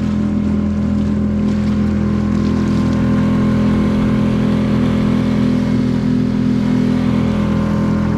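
Boat engine running at a steady speed, a constant drone.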